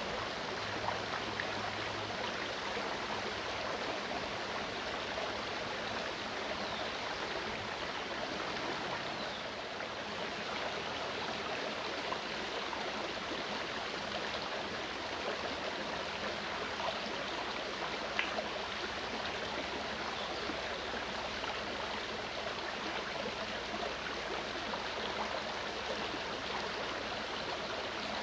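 Mountain stream running steadily: a continuous rush of water with a few brief, louder splashes.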